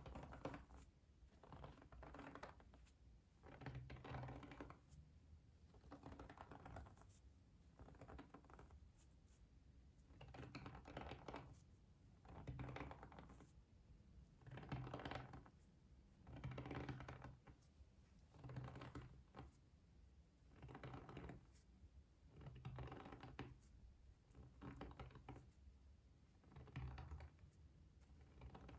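Faint, close-miked tapping and scratching, made in short bursts of quick clicks that come back every second or two.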